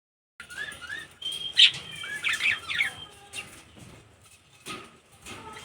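Birds chirping: a quick run of short, sliding chirps in the first three seconds, then fainter calls and a few brief sharp sounds.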